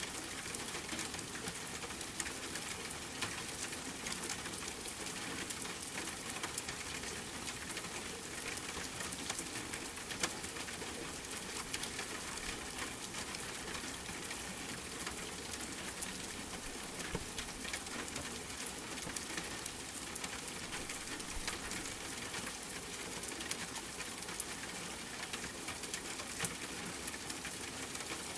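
Steady rain with a crackling fireplace: an even hiss of rainfall with many small sharp crackles and ticks scattered through it.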